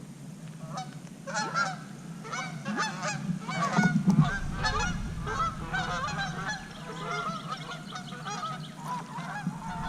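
A flock of birds calling: many short calls overlapping in quick succession from about a second in, with a low rumble underneath from about four seconds in.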